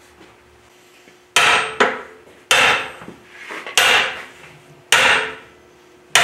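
Hammer striking a bearing driver, pounding a countershaft bearing into its bore in a CAT D4D diesel engine block. There are about five hard blows roughly a second apart, each ringing briefly, with a lighter tap just after the first.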